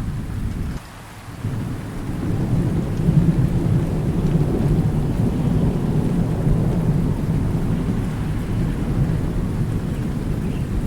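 Thunderstorm: low rolling thunder over steady rain. The sound drops away suddenly for about half a second, about a second in, then the rumble builds again and stays strong from about three seconds on.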